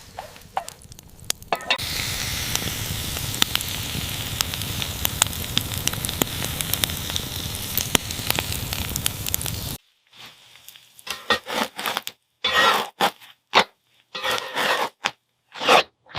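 Open campfire crackling with a steady sizzle, full of sharp pops, under a whole chicken roasting over the flames. It cuts off suddenly about two-thirds of the way through, and a string of short, separate noises follows.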